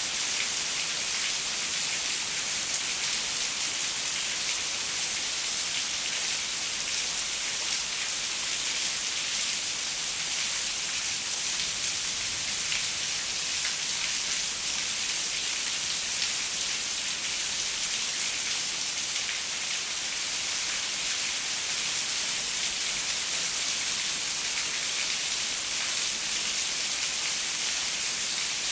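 Steady rain falling and pattering on a window pane, an even hiss with many small drop ticks.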